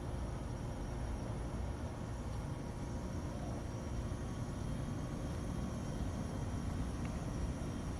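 Rooftop MRI chiller unit running: a steady low drone with faint steady tones above it, unchanging throughout.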